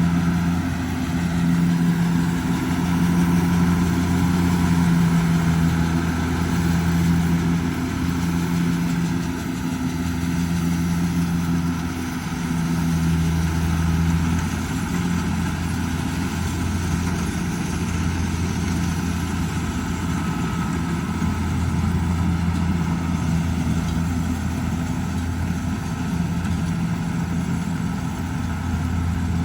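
Kubota DC70G Plus combine harvester's diesel engine running steadily, its hum rising and easing slightly now and then.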